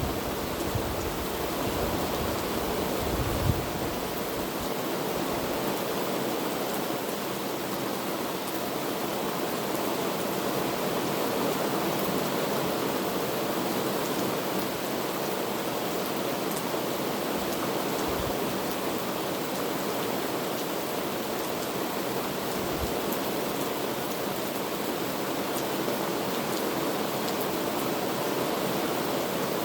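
Heavy rain falling steadily, an even hiss. A low rumble underlies it for the first few seconds, then fades out.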